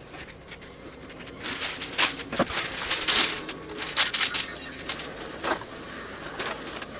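A quick run of sharp clicks, taps and short scrapes, like small hard parts being handled. It is busiest and loudest in the middle.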